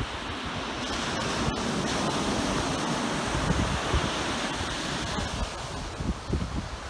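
Sea water rushing and wind buffeting the microphone aboard a moving speed boat: a steady rushing noise with irregular low gusts.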